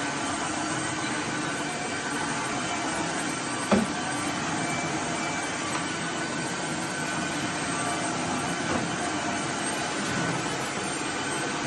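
Floor vacuum cleaner motor running steadily, with one short knock about four seconds in.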